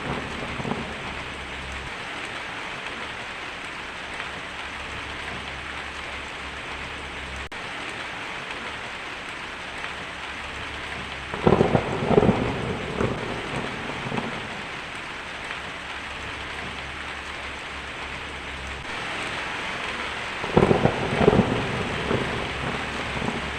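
Heavy rain falling steadily on a tin roof, with a thunderclap that rumbles for a couple of seconds about halfway through and another near the end.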